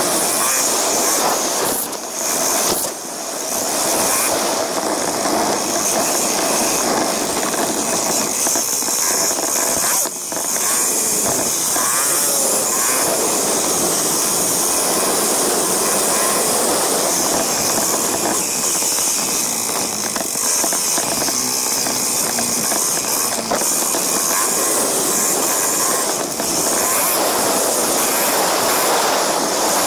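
KTM 690 Enduro R's single-cylinder engine running steadily as the bike is ridden, with rushing riding noise. The sound drops briefly about two seconds in and again around ten seconds.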